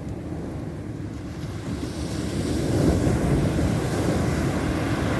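Ocean surf: a wave builds about two seconds in and breaks near the three-second mark, over a steady low rumble of wind on the microphone.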